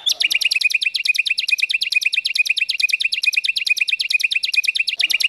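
A songbird's rapid-fire trill: one long, even run of identical sharp, downward-sweeping notes at about a dozen a second, starting abruptly. It is the machine-gun kind of phrase that Indonesian bird keepers call a 'tembakan'.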